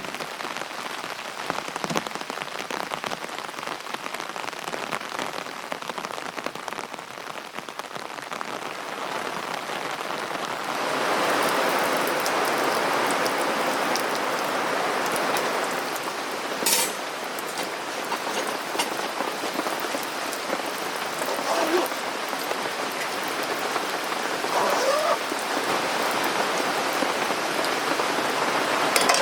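Rain pattering on a tent, a dense steady patter of drops that grows heavier about eleven seconds in.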